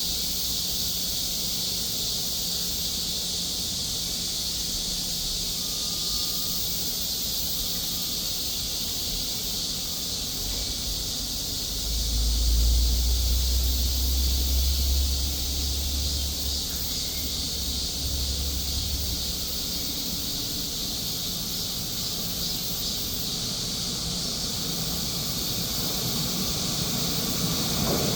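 Subway platform ambience as a Seoul Subway Line 2 train approaches: a steady high hiss with a low rumble swelling for several seconds in the middle, and the train's rumble starting to build near the end.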